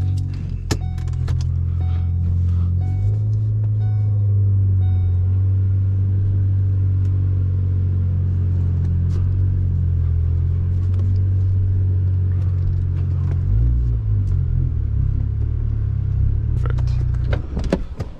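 Ford Focus ST engine running with a steady low rumble while the car is moved, with a chime beeping repeatedly over the first few seconds. The engine note changes about 13 seconds in and stops near the end.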